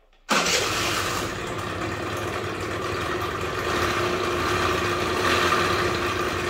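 Suzuki Let's 2 scooter's small two-stroke engine coming in abruptly just after the start and running steadily, with an extraneous noise in it that makes it run strangely; the owner suspects a bearing, though he finds no play.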